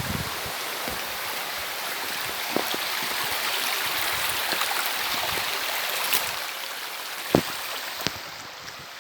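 River water rushing over rocks, a steady hiss, with a few short knocks, the sharpest about seven seconds in.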